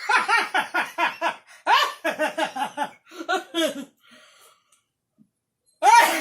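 Person laughing hard in three bouts of quick, rhythmic 'ha-ha' pulses, about five a second. A short, loud vocal outburst comes near the end.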